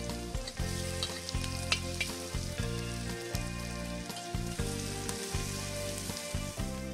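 Finely chopped shallots and garlic sizzling as they fry in hot oil in a wok, with a few sharp scrapes of a spatula stirring them, over background music.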